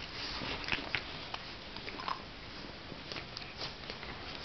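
A Jack Russell terrier and a pit bull mix play-fighting: soft scuffling and mouthing with scattered small clicks and snaps.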